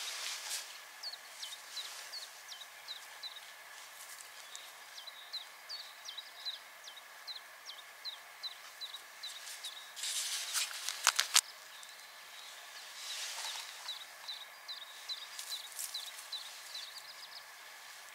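A songbird repeating a short chirp over and over, about two or three times a second. About ten seconds in comes a burst of rustling and a few sharp clicks, the loudest sounds here.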